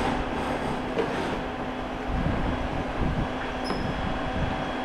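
Polaris Sportsman 850 ATV with the key on and the engine not running: the electric radiator fan runs with a steady whir alongside the hum of the electric power steering motor, with a few light knocks.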